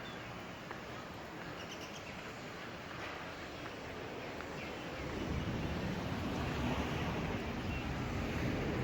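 Outdoor beachfront street ambience: a steady background hiss, with a low rumble that swells about five seconds in and holds, and a few faint high chirps near the start.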